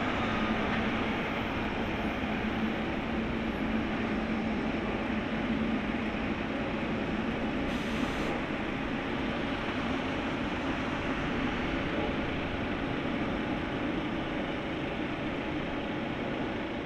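A Boeing 777-300ER's GE90-115B jet engines running after landing: a steady, unbroken jet noise.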